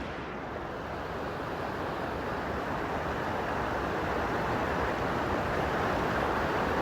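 Rushing river water: a strong current pouring along just above a waterfall, a steady roar that grows a little louder.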